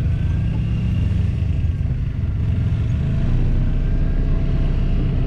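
Side-by-side UTV engine running steadily under way, a continuous low rumble that gets a little louder about three seconds in.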